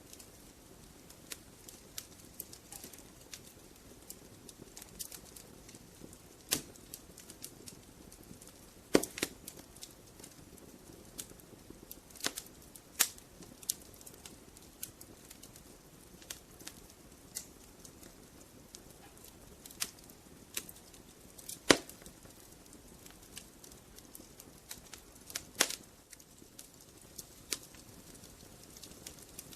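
Wood fire in a fireplace crackling: a low hiss with irregular sharp pops and snaps from the burning logs, a few louder pops among many small ones.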